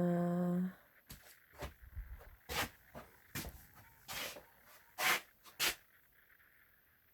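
A woman's brief held hummed note, cut off within the first second. Then comes a run of irregular short knocks, taps and rustles of things being handled, about ten over five seconds.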